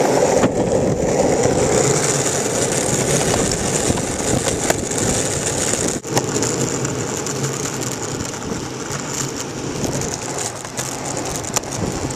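Skateboard wheels rolling steadily over pavement: a continuous gritty rumble with a few sharp clicks from the board.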